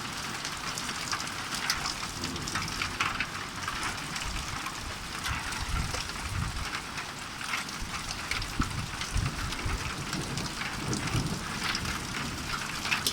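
Hail and rain pelting down: a dense, steady patter full of sharp ticks from hailstones striking, with irregular low rumbles.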